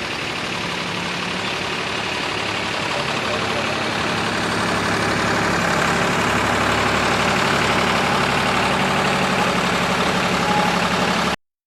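Heavy-haul truck engine running steadily, growing gradually louder, then cutting off abruptly near the end.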